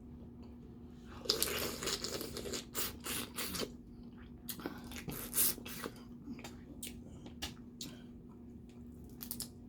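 Eating snow crab and crawfish by hand: about a second in, a couple of seconds of wet squishing and scraping as shells are worked open, then scattered sharp little clicks of shell, over a faint steady hum.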